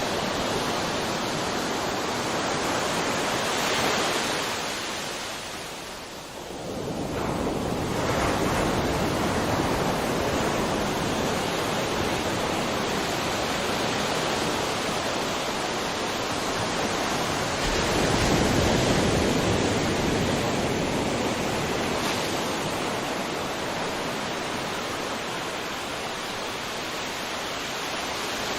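Sea waves washing ashore: a steady rush of surf that swells and ebbs, dipping briefly about six seconds in and swelling again soon after.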